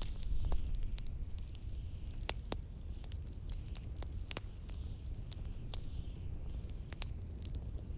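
Fireplace crackling, with sharp pops at uneven intervals, over a steady low rumble of blizzard wind.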